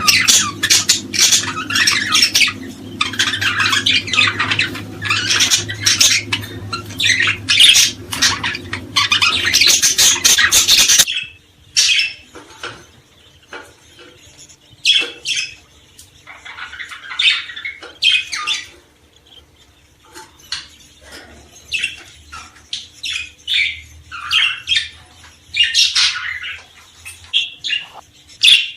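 Many small songbirds chirping and squawking in a dense, busy chorus; about 11 seconds in it cuts suddenly to sparser, separate chirps and calls over a quieter background.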